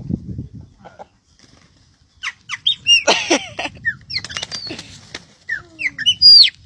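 Birds calling with many short, high, squeaky chirps, a flurry of wing flapping about three seconds in, and the loudest call near the end.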